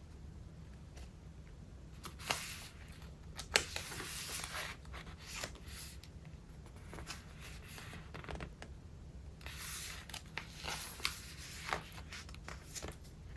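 Pages of a thick collaged traveler's notebook being turned by hand: paper rustling and crinkling in irregular bursts with a few sharp snaps, over a steady low hum.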